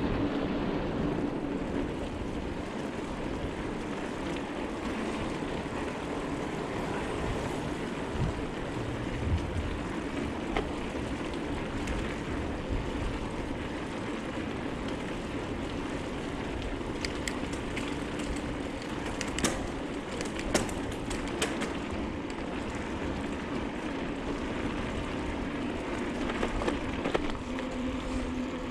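Bicycle being ridden along a trail: steady tyre rumble and wind on the microphone, with scattered sharp clicks and rattles from the bike.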